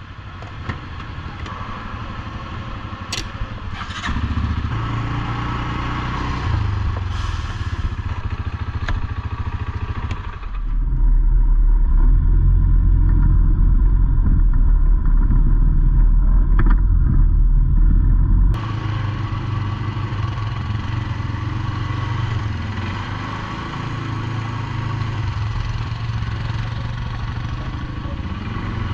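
ATV engine running and pulling along a rough trail, its note rising and falling with the throttle, with a few sharp clicks near the start. For several seconds in the middle the sound turns into a louder, muffled low rumble, then cuts back abruptly to the plain engine note.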